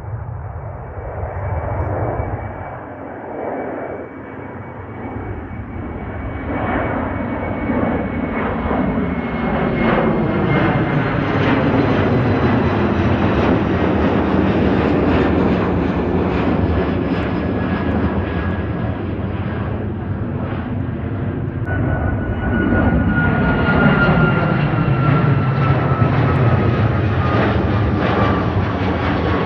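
Boeing 737 twin-jet engines at takeoff power, the noise building and then staying loud, with a high engine whine that slowly falls in pitch.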